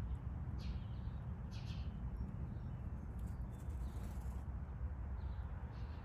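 Small birds giving short chirps every second or so, over a steady low rumble.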